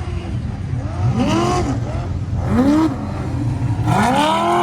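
Off-road prerunner race truck engines revving hard, the pitch rising and falling three times as the trucks accelerate and lift off the throttle over the track's jumps.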